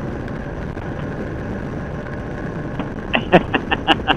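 Motorcycle riding at speed on a wet road: a steady mix of wind, engine and tyre noise. About three seconds in, a quick run of short pitched pulses, about six a second, cuts in over it.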